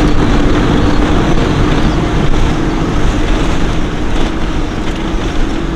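Toyota Land Cruiser Troop Carrier driving over a rough clay-capped dune track: steady engine drone under a loud rumble of wind and road noise on the microphone.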